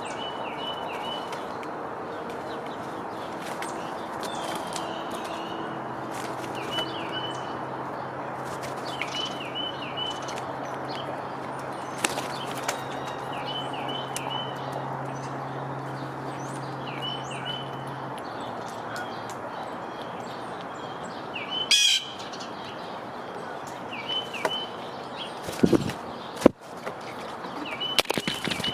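Small songbirds at a backyard feeder calling in short repeated chirps every second or two, over a steady outdoor background hiss. Several sharp knocks come in the last few seconds.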